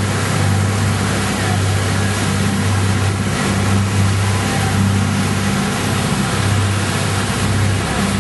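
An engine running steadily under way: a low hum that swells and dips about once a second, over constant rushing wind or road noise.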